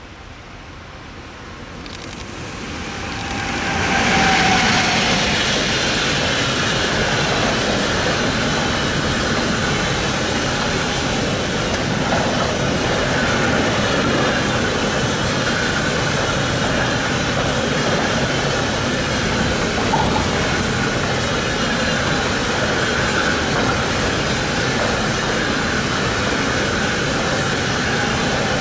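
A train approaches, growing louder over the first four seconds, then passes close by. Its wheels run steadily on the rails for more than twenty seconds, the sound of a long train going past.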